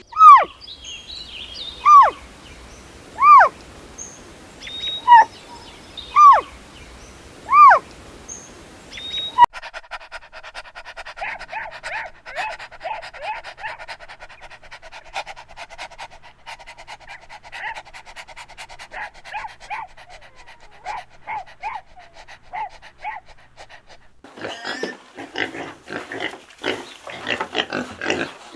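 Animal calls in three runs. First come six loud, short calls about a second and a half apart, each rising and falling in pitch. Then comes a long, fast string of quieter short chirps, and near the end harsh, noisy grunts.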